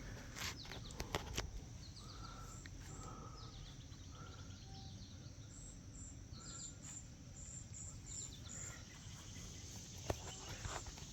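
Faint outdoor ambience with small birds chirping repeatedly in short high notes over a steady low background noise. There are a few sharp clicks near the start and about ten seconds in.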